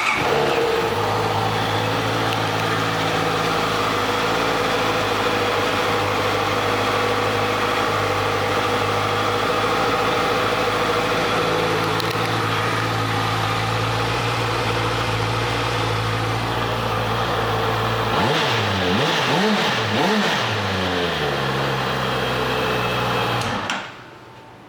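2014 Honda CB650F's inline four-cylinder engine idling steadily just after starting. About eighteen seconds in it is revved in a few quick blips, then it settles back to idle and is shut off about a second before the end.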